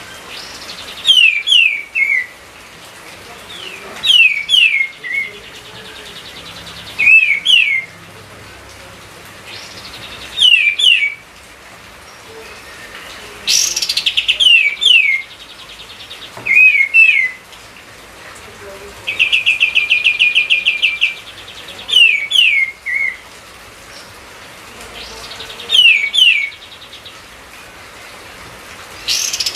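A kapas tembak (katem) songbird sings in energetic bursts: every three seconds or so comes a short phrase of two or three quick whistles falling in pitch. Several phrases are joined by rapid buzzy rattles, the longest about two-thirds of the way through. A faint steady hiss runs underneath.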